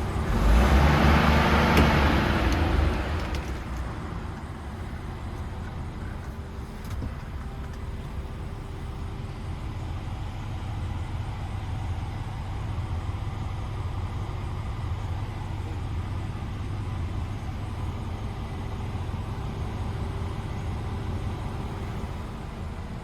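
DAF XF106's Paccar 530 hp six-cylinder diesel engine running. A louder rush of sound in the first three seconds dies down to a steady low idle.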